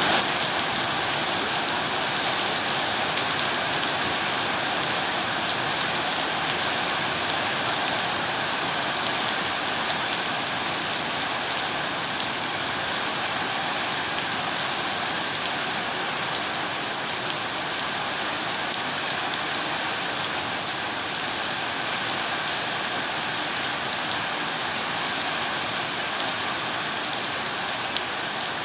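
Steady rain falling, with a dense scatter of small drop ticks over an even hiss.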